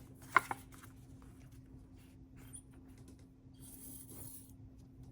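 Paper and cardstock being handled and pressed down by hand: a sharp tap about half a second in, then faint clicks and soft rubbing and rustling in the second half.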